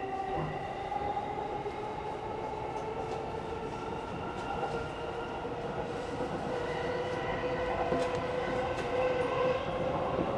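JR East E233 series electric train running along the track: steady rolling rumble with a whine of several held tones that drift slightly in pitch, and a few faint clicks from the wheels.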